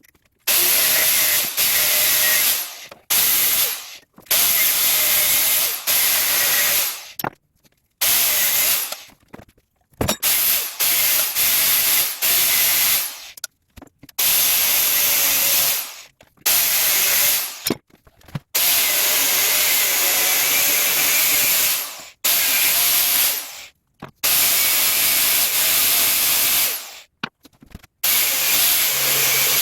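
Angle grinder cutting into the motorcycle's steel frame in repeated bursts of one to four seconds, with the motor winding down in the short gaps between cuts.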